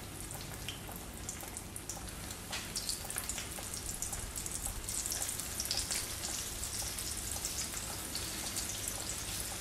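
Breadcrumbed lentil croquettes sizzling in shallow vegetable oil in a frying pan, a dense crackle of many small pops that gets louder a couple of seconds in as more croquettes go into the oil.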